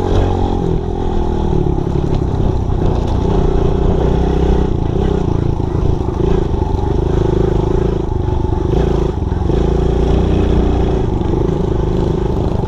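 Small dirt bike engine running steadily, its pitch shifting up and down as the throttle changes.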